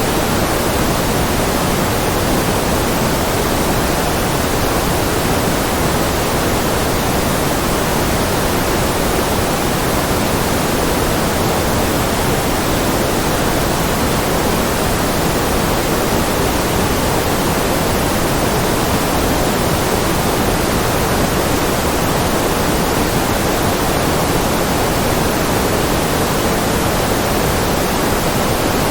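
Steady synthetic noise, a constant hiss weighted toward the lower frequencies, like pink noise. It never changes.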